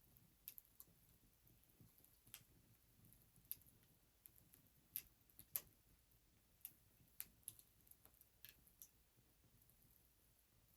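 Wood fire crackling: about fifteen sharp, irregularly spaced pops and snaps, the loudest one just past the middle.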